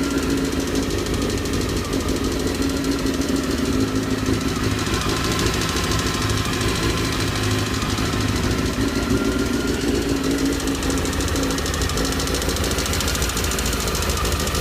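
Honda CBR919RR Fireblade's inline-four engine running steadily with a rapid, even knocking from inside the motor, the engine knock the owner is showing.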